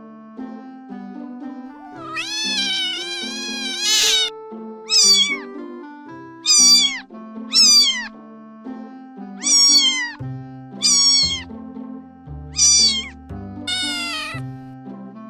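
Cats meowing in a series of separate calls: one long drawn-out meow about two seconds in, then about seven shorter meows roughly one a second. Background music of sustained notes plays underneath, with a bass line coming in about ten seconds in.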